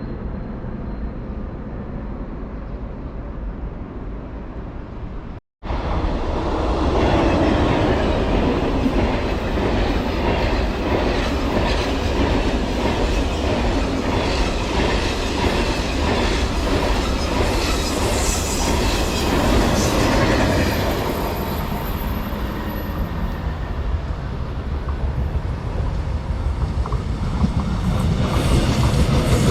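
A train running past close by on the track: a loud, steady rumble and clatter of wheels on rails that swells and eases as the cars go by. About five and a half seconds in, a quieter stretch of outdoor noise cuts off abruptly before the train sound begins.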